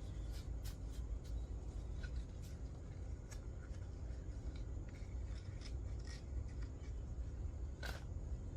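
Scattered light clicks and scrapes from hands handling small metal parts and screws of a chainsaw mill attachment, a sharper click near the end, over a steady low rumble.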